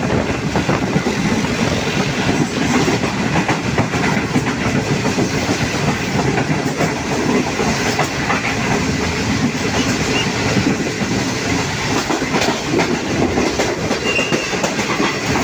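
GreenLine Express passenger train running along the track, with a steady rumble and the clickety-clack of carriage wheels over rail joints.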